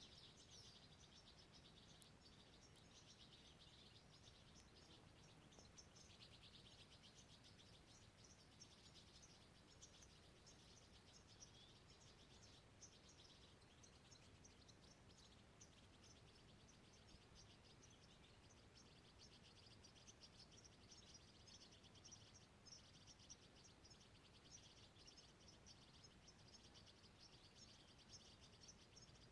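Faint, continuous high-pitched chirping from small wild animals, many rapid short notes in quick succession, over a low background hiss.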